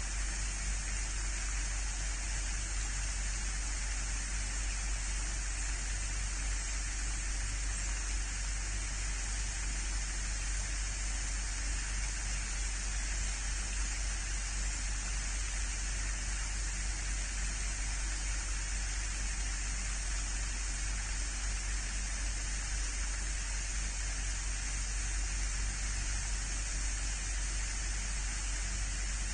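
Steady, even hiss of outdoor live-cam microphone ambience, with a low hum underneath and no distinct sounds standing out.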